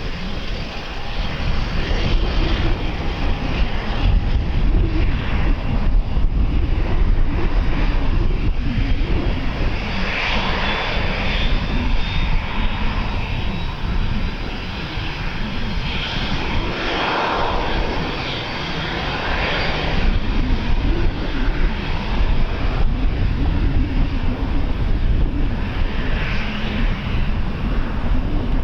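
Airliner engines running loud and steady, with a faint high whine that glides slowly down near the middle. Wind buffets the microphone underneath.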